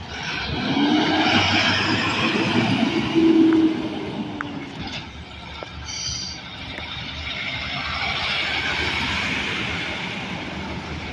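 Road traffic passing close by. A heavy vehicle goes past with tyre and engine noise that swells and fades, carrying a droning tone in its first few seconds. A second pass-by swells about eight seconds in.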